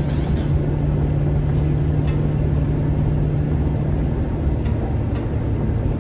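1972 Ford Gran Torino Sport cruising at a steady speed: a steady low engine hum over road rumble.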